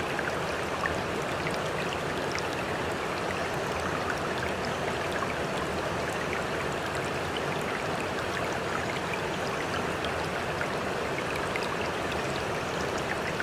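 Small spring-fed waterfall splashing and flowing steadily, with scattered droplet splashes.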